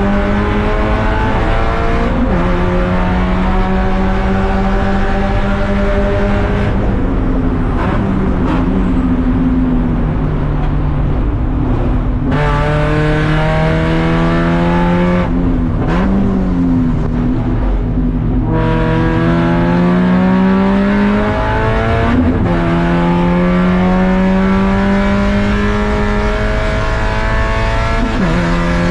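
Race car engine accelerating hard through the gears, its pitch climbing and dropping at each upshift. Twice it lifts off and drops pitch with quick throttle blips on the downshifts before pulling hard again.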